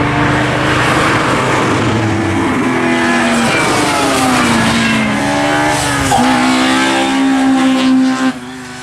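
Front-wheel-drive rally car engine running hard at high revs, its pitch falling and climbing with throttle and gear changes, with a sharp drop and re-climb about six seconds in. The sound cuts down abruptly near the end.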